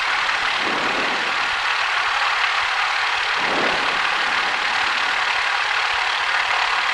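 Cessna 172's engine idling while holding short of the runway, heard inside the cabin as a steady drone and hiss.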